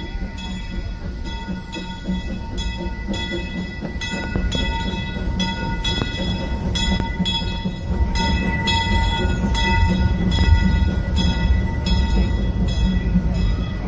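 Disneyland Railroad steam train passing over a bridge, a regular beat of about two strokes a second over a low rumble, getting louder toward a peak about ten seconds in.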